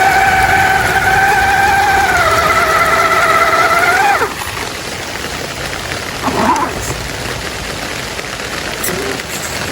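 Electric motor and gearbox of an RC crawler whining at a steady pitch, dipping slightly about two seconds in, then winding down and stopping about four seconds in. A steady rushing hiss of water stays underneath, with a couple of brief faint whirs near the end.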